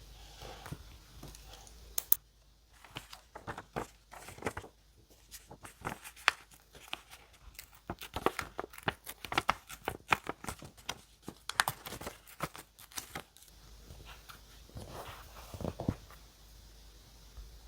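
Paper being torn and crinkled by hand for scrapbook journaling: a busy run of small crackles and rips from about two seconds in to about thirteen, then a few softer rustles near the end.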